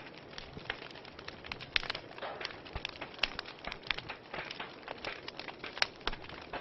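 Wood fire crackling, with frequent irregular pops and snaps over a steady soft hiss; the sharpest pops come a little under two seconds in and near the end.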